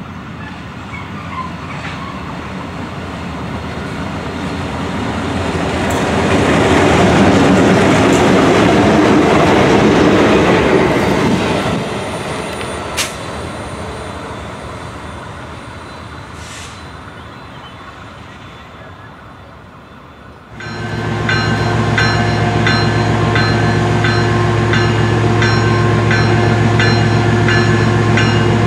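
Diesel freight trains passing: the rumble of a train swells for several seconds, then fades away, with a sharp click about 13 seconds in. After an abrupt change, a locomotive's diesel engine runs with a steady low drone and a high ringing repeated about twice a second.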